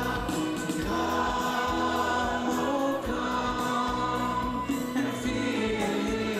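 Gospel choir singing a worship song with instrumental accompaniment, the voices holding long sustained notes over a light beat.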